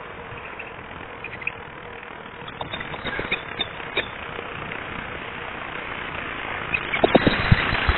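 Wind and rolling noise from a bicycle ride, picked up on a rider's camera microphone, with scattered clicks and rattles that grow louder and denser near the end into a run of sharp knocks.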